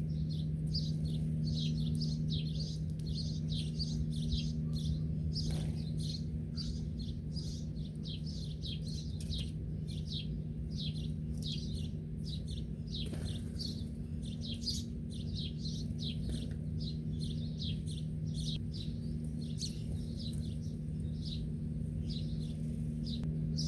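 Small birds chirping rapidly and without pause, many short high chirps a second, over a steady low hum.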